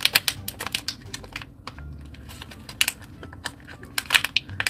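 Close-miked eating sounds: chewing and biting, a run of irregular sharp wet clicks with a few louder crunches.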